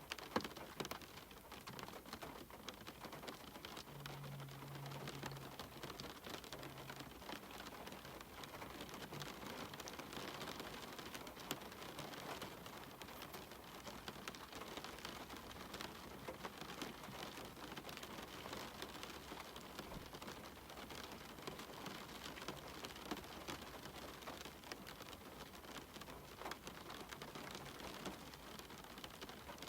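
Steady rain falling, with a dense patter of individual drops ticking through a continuous hiss.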